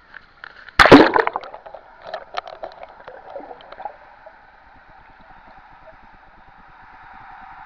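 Water splashing and sloshing against a GoPro sealed in its waterproof casing. There is a loud splash about a second in, then scattered small sloshes, settling into a steady muffled gurgling hiss.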